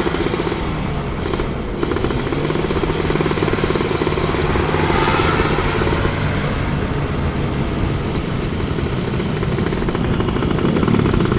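Kawasaki 150 cc two-stroke motorcycle engine running while the bike is under way, steady apart from a brief drop in level about a second and a half in.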